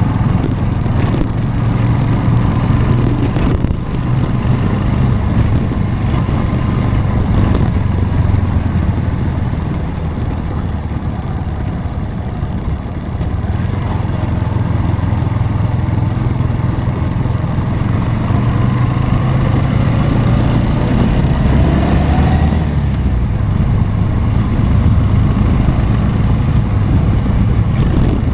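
Motorcycle engine running under way. It eases off about ten seconds in, then pulls again about thirteen seconds in.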